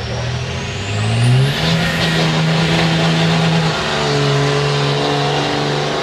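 Diesel pulling truck revving up under load: the engine note climbs with a rising turbo whistle over the first second and a half. It then holds at high revs as the truck pulls, easing slightly about four seconds in.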